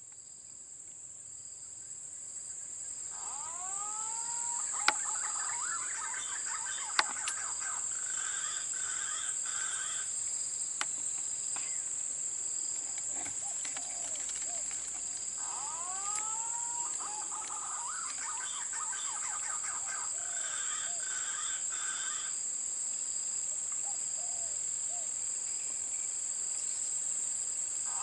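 Green pigeon (punai) calls played back from an electronic bird caller: a phrase of whistled, curving notes followed by a run of shorter notes, repeating as an identical loop about every 12 seconds. A steady high insect drone runs underneath, and two sharp clicks come about 5 and 7 seconds in.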